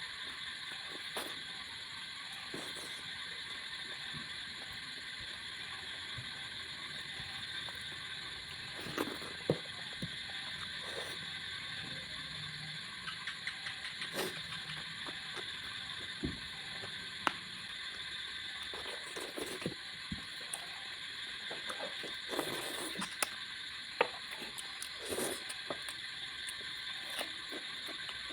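A person eating fish curry and rice at close range: scattered chewing, lip smacks and small wet clicks over a steady background hiss, more frequent in the second half.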